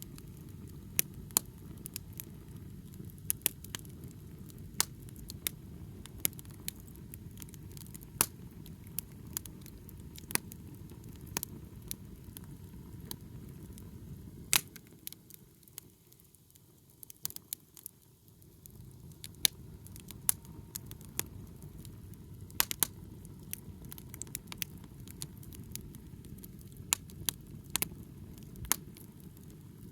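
Wood bonfire crackling, with sharp irregular pops over a low steady rumble. The rumble drops away for a few seconds about halfway through.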